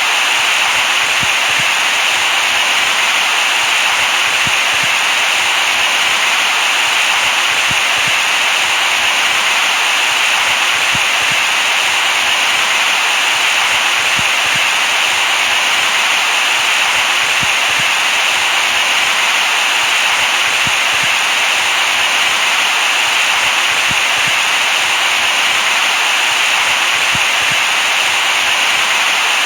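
Steady, loud white noise, a constant hiss with most of its energy in the upper middle range, unchanging throughout.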